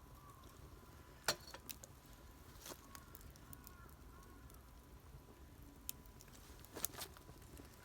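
Wood fire crackling quietly, with a few sharp pops about a second in, near three seconds and again near seven seconds.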